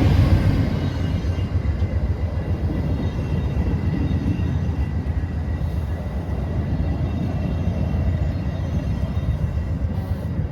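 A passing train's rumble dies away after the loudest part has gone by, leaving a steady low rumble with faint high ringing tones that eases slightly near the end.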